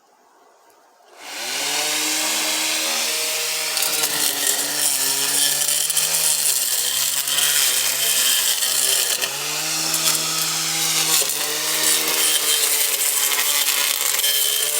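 A Walita blender motor driving an improvised weed-cutter blade starts up about a second in and runs on its medium setting. Its whine sags and recovers in pitch several times as the blade chews into the weeds.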